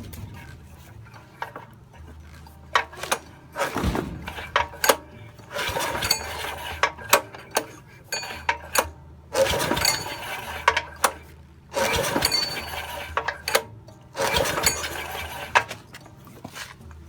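Recoil starter of a Mitsubishi G710L small single-cylinder engine pulled about five times, each pull a sudden burst of about a second with clicks.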